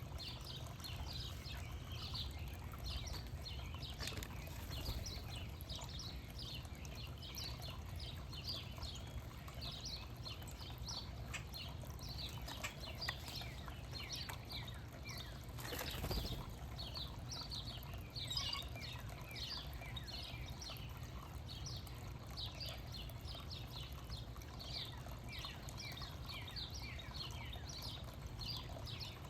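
Many small songbirds chirping continuously in quick, short, falling notes over a steady low rumble, with a brief rush of noise a little past halfway.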